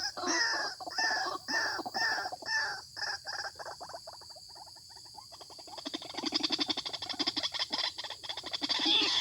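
White-breasted waterhen calling: a run of repeated arching notes, about two a second, that fades out about three seconds in. After a short lull, a fast stuttering chatter starts about six seconds in.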